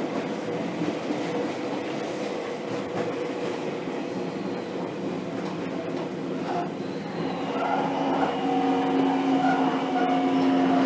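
Onboard running sound of a Seibu 2000 series train in one of set 2097F's Mitsubishi GTO VVVF inverter cars: rail and running noise, then about seven seconds in a set of steady, unmusical inverter tones come in and the sound grows louder.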